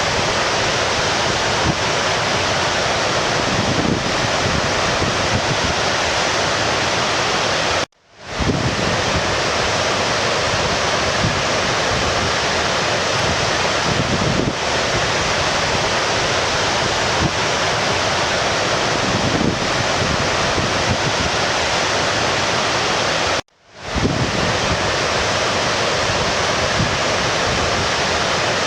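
A stream's water rushing steadily. It cuts out abruptly twice, about 8 seconds in and about 23 seconds in, each time swelling back in within half a second.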